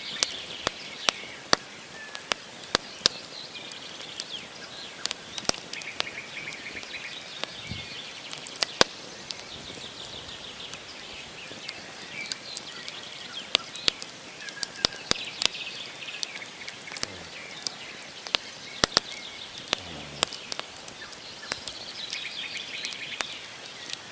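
Wood fire crackling, with sharp, irregular pops of burning logs throughout. Birds chirp in the background in quick runs of short, high notes that come and go.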